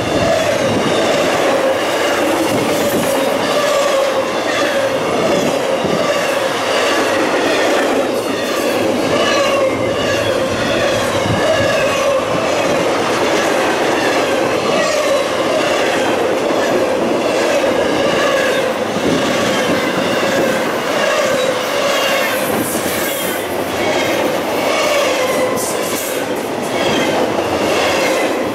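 Intermodal freight train cars (trailers on flatcars and double-stack containers) rolling past close by. The steel wheels run loud and steady on the rail, with a wavering wheel squeal throughout.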